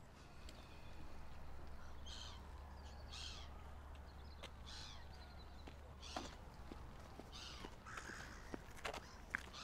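Birds calling, several short harsh calls spaced about a second apart, over a low steady rumble, with a few sharp clicks near the end.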